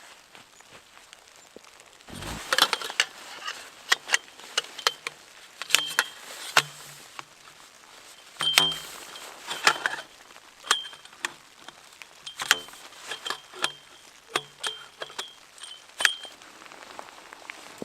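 Metal camping gear being handled: a long irregular run of sharp clinks and taps, each with a brief metallic ring, broken by two heavier thumps about two and eight seconds in.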